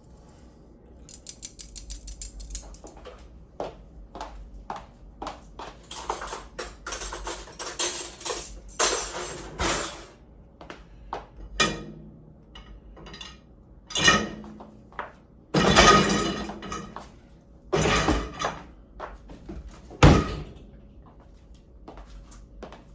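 Dishes and cutlery clattering and clinking as a dishwasher is unloaded, with a quick rattle of utensils about a second in and several heavier knocks of crockery being set down later on.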